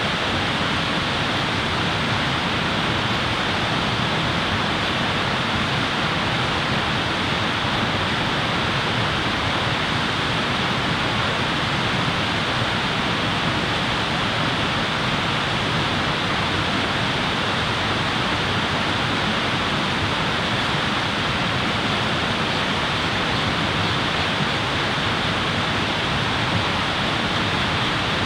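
Steady rushing noise at an even level, without breaks or distinct clicks.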